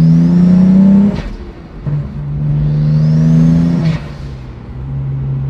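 Turbocharged BMW N54 inline-six in an E82 pulling hard through two upshifts of a manual gearbox, heard from inside the cabin: the engine note climbs together with a high rising turbo whistle, breaks off with a short whoosh about a second in, climbs again, breaks off near four seconds, then settles into a steady lower note in the higher gear. The whoosh at each shift is the vent of the aftermarket Tial blow-off valve under boost.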